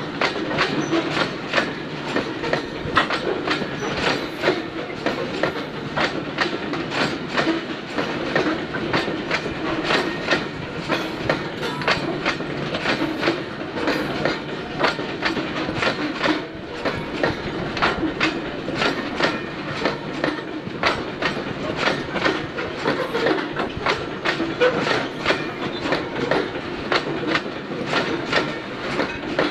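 Covered goods wagons of a slow freight train rolling past, their wheels clicking steadily over the rail joints over a continuous rumble.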